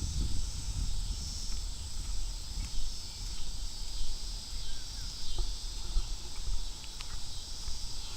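Insects, likely crickets, chirring in a steady high band, over an uneven low rumble of wind on the microphone.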